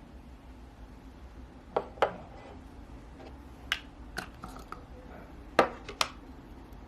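Kitchenware being handled: about six sharp clicks and light knocks of dishes or utensils, several coming in close pairs.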